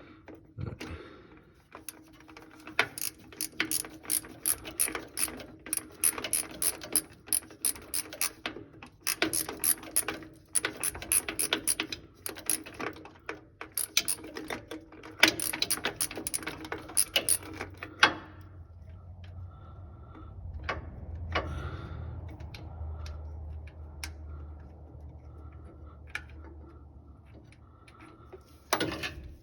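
Hand socket ratchet clicking in quick runs of strokes, backing out a starter mounting bolt on a Ford 5.4 V8. After about 18 seconds the clicking stops, leaving a few faint scattered clicks.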